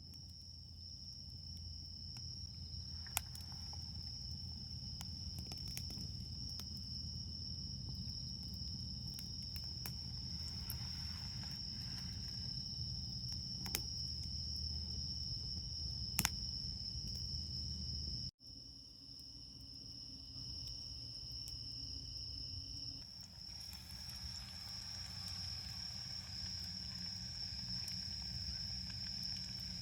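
Autumn night insects such as crickets trilling steadily in a high, unbroken tone, over a low rumble, with a few sharp crackles from a wood campfire. The sound drops out for an instant a little past halfway.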